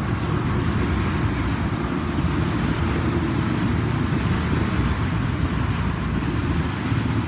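Freight train rolling past, a steady loud rumble of wheels and cars without a break.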